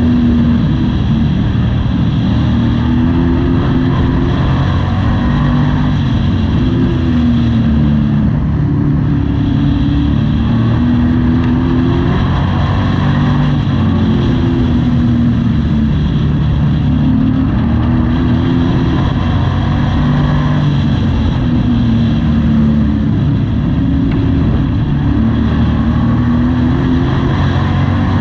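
Race truck's engine heard from inside the cab at racing speed, its pitch climbing and dropping again every few seconds as the driver accelerates and lifts for the corners of the short oval.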